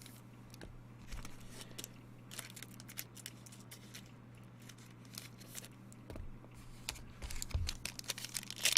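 Trading card packs and wrappers being handled: faint crinkling and rustling with scattered small clicks, getting busier near the end.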